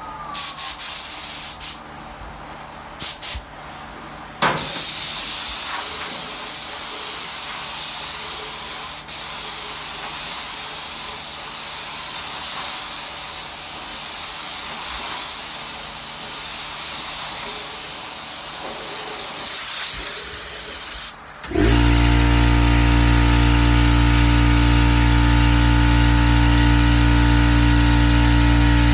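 Paint spray gun spraying clear coat: a few short blasts of hiss, then a long, steady hiss. About three quarters of the way through, the hiss stops and a loud, steady motor hum starts.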